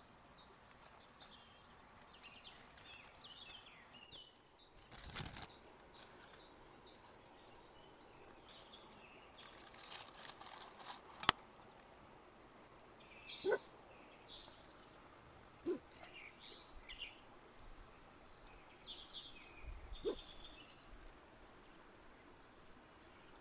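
Birds chirping faintly and intermittently in the open air. A few short rustles and sharp clicks or knocks come through now and then.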